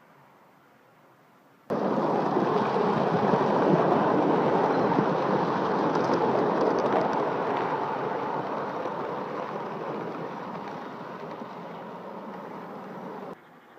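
Model train running on the layout: a loud, steady rumble of wheels and motor with no clear pitch that starts suddenly about two seconds in, slowly fades, and cuts off abruptly near the end.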